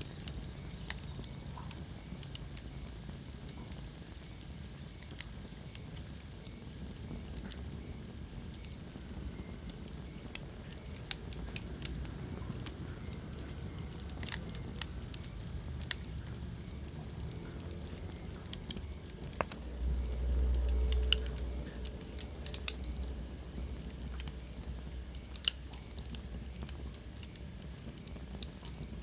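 Wood fire burning in a fireplace, crackling with irregular sharp pops and snaps over a low steady rumble. The rumble briefly swells louder about two-thirds of the way through.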